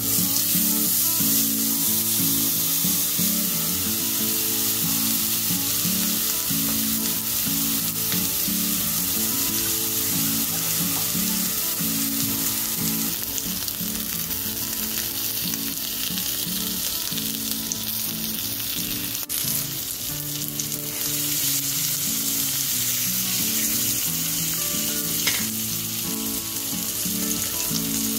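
Raw New York strip steak searing in hot oil in a cast iron skillet: a steady sizzle that starts as the steak goes into the pan. Partway through, a pat of butter is added and foams in the hot fat.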